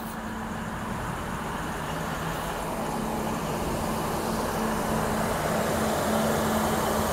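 A train approaching, its running noise growing steadily louder, with a steady low engine or motor hum under the rumble.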